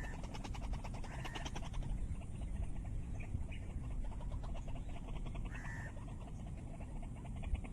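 White-breasted waterhen (ruak-ruak) calling: a rapid, harsh, croaking chatter of fast repeated pulses, with short higher notes breaking in every few seconds. This is the call used as a lure for trapping the bird.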